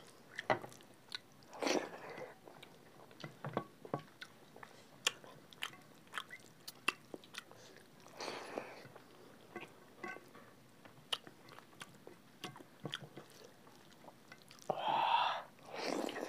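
Close-up eating sounds of two people eating rice, dal and egg curry by hand: chewing and wet mouth smacks, with scattered sharp clicks of small bowls and fingers on plates. A louder, longer sound comes about a second and a half before the end.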